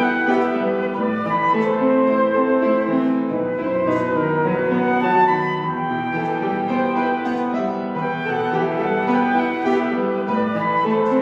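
Instrumental duet: a held, sustained melody line playing over piano accompaniment, the notes changing steadily without a break.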